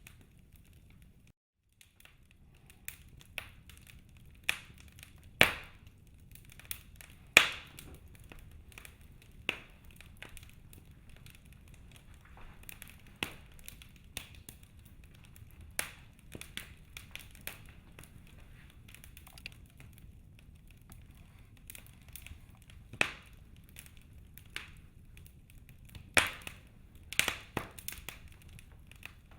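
Wood fire crackling in a fireplace: irregular sharp pops and snaps, with a few louder cracks, over a faint steady low rumble of the flames. The sound drops out briefly about a second and a half in.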